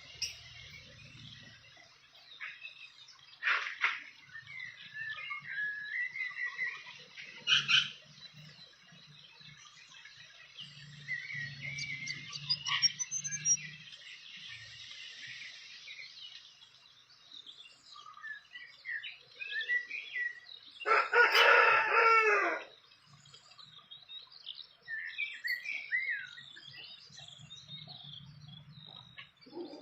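Small birds chirping and twittering throughout, with a rooster crowing once, loudly, a little past two-thirds of the way through.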